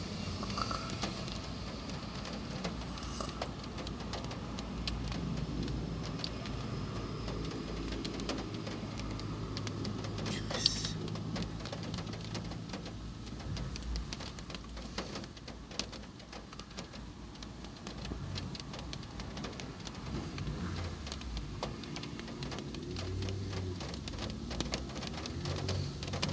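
Rain falling, drops pattering on a hard surface as many small irregular ticks, with one sharper tick about ten and a half seconds in, over a steady low hum.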